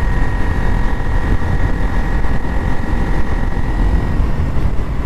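Wind rumble on the microphone of a GoPro Hero 9 fitted with a furry dead-cat windscreen, on a moving motorcycle, with the bike's engine and road noise mixed in and a steady high whine throughout.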